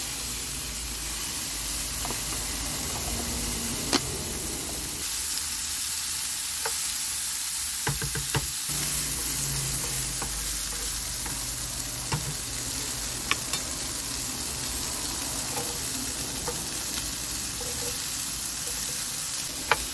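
Chicken pieces sizzling steadily as they fry in a frying pan, with a few light clicks and scrapes from a plastic spoon stirring them.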